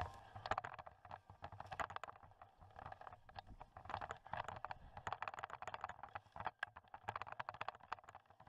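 Snow crunching and scraping in quick, irregular clicks and crackles as packed snow is cleared off an RV roof.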